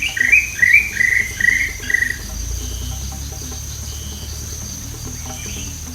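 Forest ambience: a bird calls a quick run of about six short chirping notes over the first two seconds, over a steady high-pitched insect drone.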